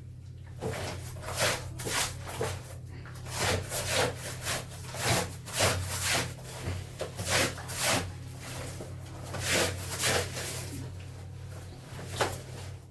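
Clothes being scrubbed by hand: a run of rough rubbing strokes, about one or two a second, with a short pause in the middle, over a low steady hum.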